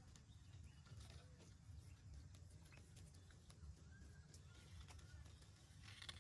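Near silence: a faint low background rumble with scattered light clicks, a few faint short high chirps about two-thirds of the way in, and a brief rustle near the end.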